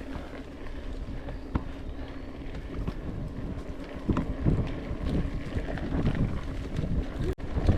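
Wind buffeting the microphone over a rough rumble with scattered knocks and rattles, as a mountain bike rides a trail. The sound briefly cuts out near the end.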